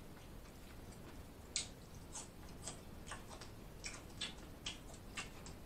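Faint, irregular mouth clicks and lip smacks from someone chewing food, roughly two a second.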